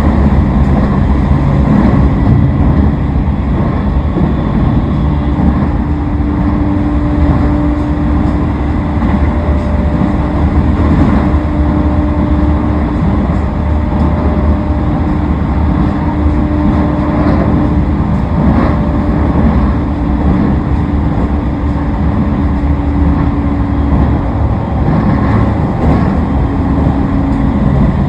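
Toei Shinjuku Line 10-300 series electric train running at speed, heard on board: a steady rumble of wheels on rail with an even hum from the Mitsubishi IGBT-VVVF traction equipment.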